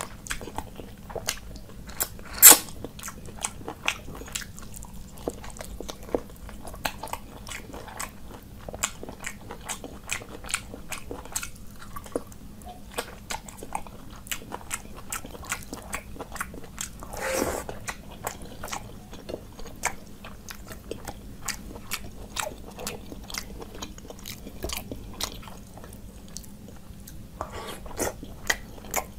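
Close-miked chewing of rice and meat curry eaten by hand, with many wet mouth clicks. One sharp click comes about two and a half seconds in, and a longer, louder mouth noise about seventeen seconds in. A faint low hum runs underneath.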